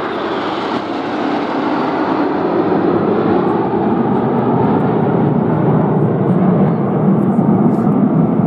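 Aircraft engine noise from a display aircraft flying past. It is a steady sound that grows slowly louder, its highest part fading during the first few seconds.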